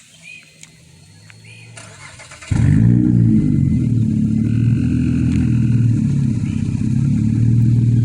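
2007 Honda Pilot's 3.5-litre V6 starting up about two and a half seconds in through a Flowmaster Super 10 muffler and dual exhaust with 5-inch tips, flaring briefly and then settling into a steady idle.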